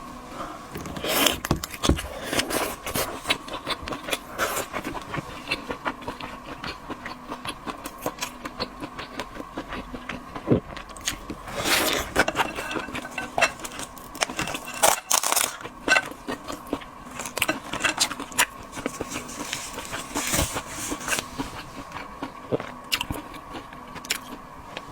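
Close-up eating sounds of seafood: irregular crunching, cracking and wet chewing clicks, with a few louder cracks, over a faint steady hum.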